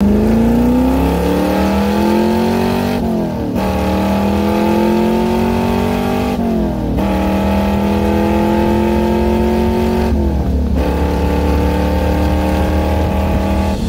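1969 Corvette C3's V8 with side-mount exhaust accelerating hard, its pitch climbing steadily in each gear with three quick upshifts, about 3, 6.5 and 10 seconds in.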